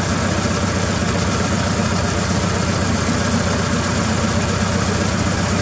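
Volkswagen Sedán's air-cooled flat-four engine idling steadily as it warms up.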